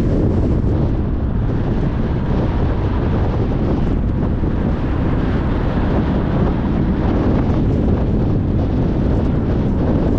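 Car driving at speed on a motorway: steady tyre and wind noise.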